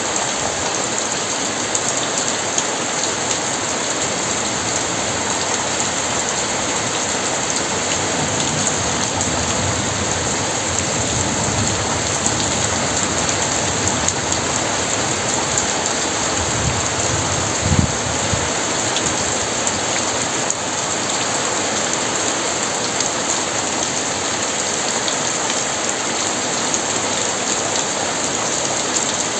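Very heavy rain pouring steadily, with a low rumble of thunder that swells in the middle and peaks about two-thirds of the way through.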